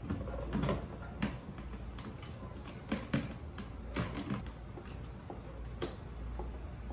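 Irregular light clicks and taps in a small room, about a dozen over the span, a few louder knocks among them, over a faint steady low hum.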